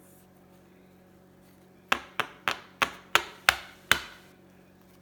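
Seven sharp knocks in quick succession, about three a second, each with a short ring after it.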